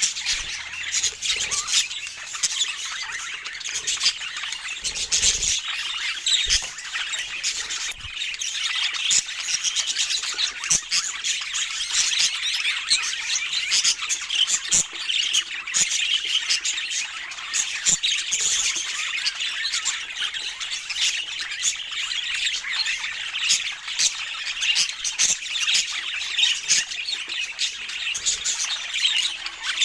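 Budgerigars chattering and squawking without a break, a dense run of high warbles and short sharp calls.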